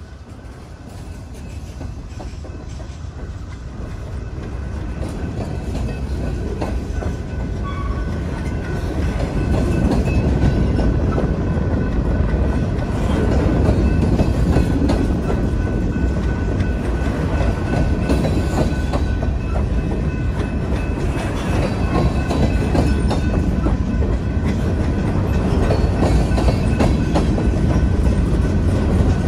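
Freight train of covered hopper cars rolling past close by: steel wheels clacking over the rail joints with a steady low rumble, growing louder over the first ten seconds or so and then holding.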